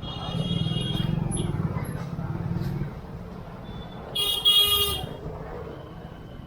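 Busy street traffic: a vehicle engine rumbles under repeated horn honks, with a short horn at the start and a loud, shrill horn blast a little after four seconds that is the loudest sound.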